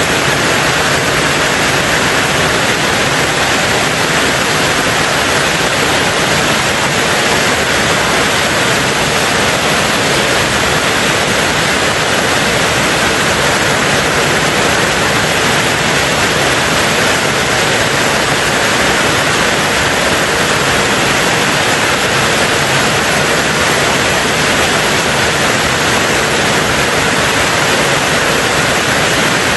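Heavy rain falling steadily on a tin roof: a dense, even hiss in which no single drops stand out.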